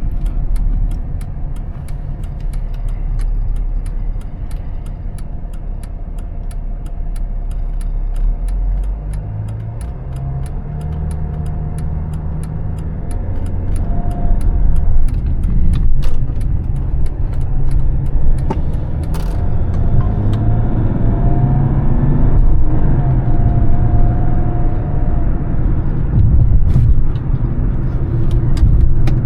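2004 Mercedes-Benz E320 CDI's 3.2-litre straight-six turbodiesel running while driving, a steady low rumble. About a third of the way in the engine note rises as the car picks up speed, and it runs louder through the second half; faint regular ticks about twice a second sound over the first half.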